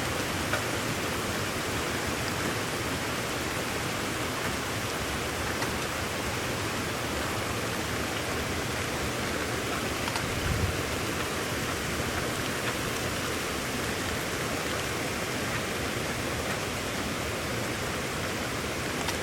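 Steady rain storm, an even, unbroken hiss of rainfall, with a brief low thump about halfway through.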